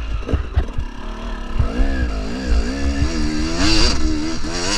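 KTM 300 two-stroke single-cylinder dirt bike engine revving up and down in quick swells under a working throttle. There are a few sharp knocks in the first second or so, and a steady low rumble underneath.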